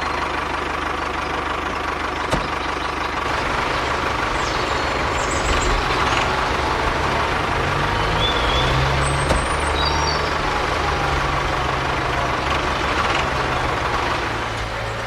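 A machine running steadily, a low engine-like drone under a constant hiss, with a few faint short high chirps.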